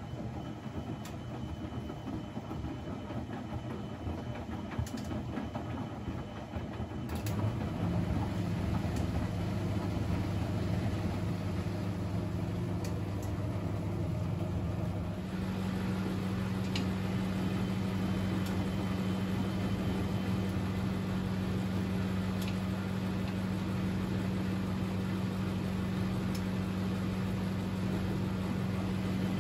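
Privileg 3001 S washing machine running, its gear motor turning the drum with a steady low hum. The hum grows louder about 7 seconds in and settles into an even drone after about 15 seconds.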